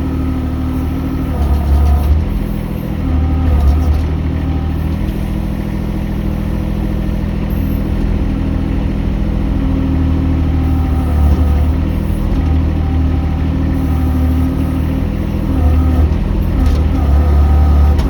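Mini excavator's diesel engine running steadily, its note and loudness swelling and easing every few seconds as the machine works.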